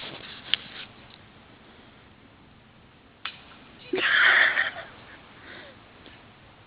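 A person's short, breathy exhale about four seconds in, after two faint clicks.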